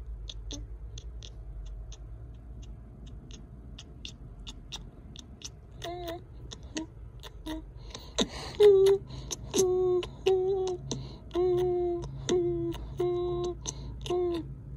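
A person's voice humming a run of short held notes, all at about the same pitch, starting about halfway in. Underneath are a steady low rumble and a light regular ticking.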